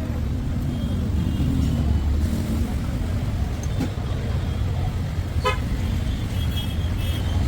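Steady low rumble of a motor vehicle's engine running, with one short horn toot about five and a half seconds in.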